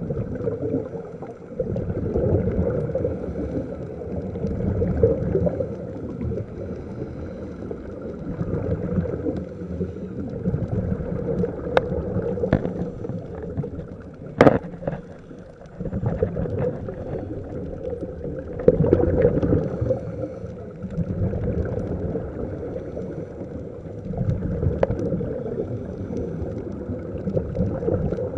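Underwater rushing and gurgling of a scuba diver's exhaled bubbles, swelling and fading every few seconds, with a few sharp clicks.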